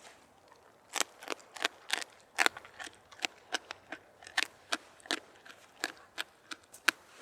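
Dry twigs and brush snapping and crackling underfoot as someone walks through the forest floor: an irregular run of sharp snaps, about three a second, starting about a second in.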